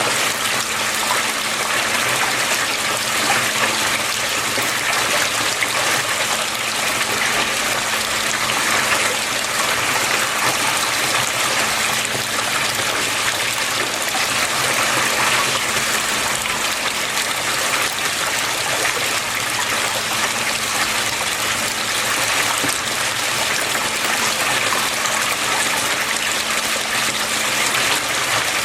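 Water flowing and splashing steadily, with a faint steady low hum underneath.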